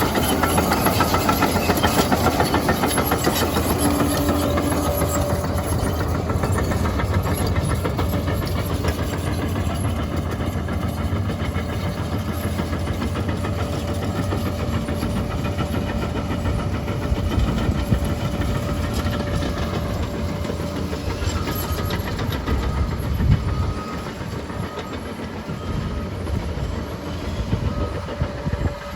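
Liebherr PR 746 crawler dozer working, its diesel engine running under load and its steel tracks clattering, with a few short beeps near the end.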